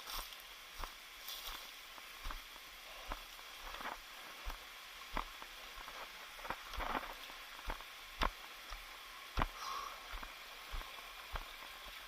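Footsteps on a trail: uneven steps, about one or two a second, over a steady faint hiss.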